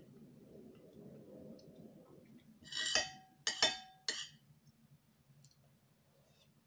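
Tableware clinking: four sharp, lightly ringing clinks in quick succession about halfway through, after a soft low rustle.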